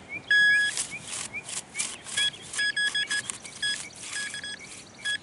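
Metal detector beeping over a buried target: one long steady tone, then clusters of short beeps at the same pitch. Between them come scraping clicks of digging into the soil, with a faint rising chirp repeating in the background in the first second.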